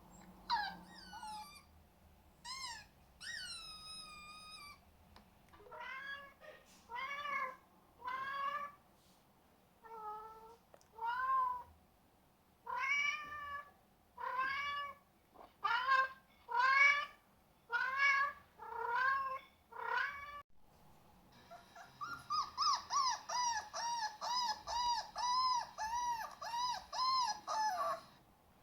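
Cat meowing over and over, one rising-and-falling meow about every second, then a quicker run of short meows, about three a second, over the last several seconds.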